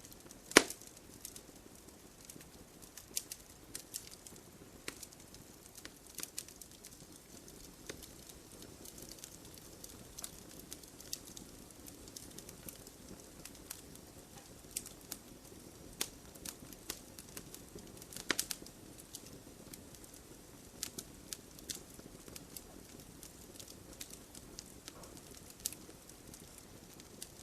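Wood logs burning in a fireplace: a low, steady rush of flame with irregular crackles and sharp pops, the loudest pop about half a second in and another strong one about 18 seconds in.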